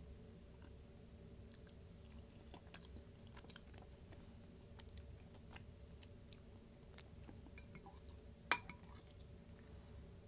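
Close-miked chewing of a chicken bowl, with soft wet mouth clicks. Near the end, two small clicks, then one sharp loud click that is the loudest sound.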